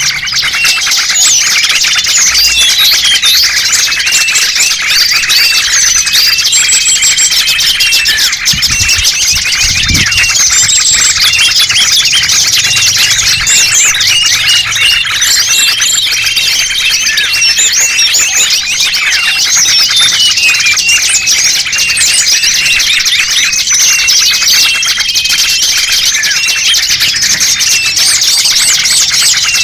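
A dense chorus of many small birds chirping and twittering over one another, loud and unbroken, with short high whistled notes now and then: a small-bird lure call recording played to attract wild birds.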